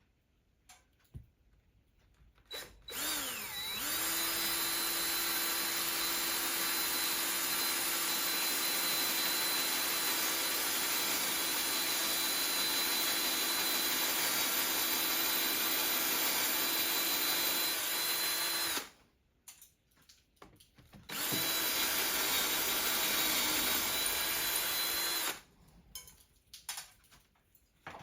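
Electric drill running at a steady speed in two runs, one of about fifteen seconds and then one of about four seconds, while fitting a lag eye bolt into the ceiling. A few light knocks come between and after the runs.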